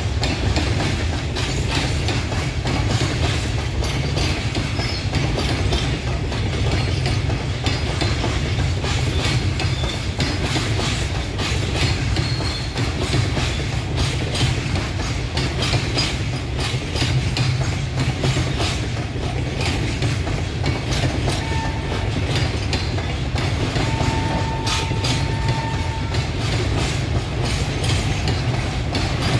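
Flatbed freight wagons rolling past at steady speed, their wheels clattering over the rail joints above a constant low rumble. A thin steady tone sounds briefly twice near the end.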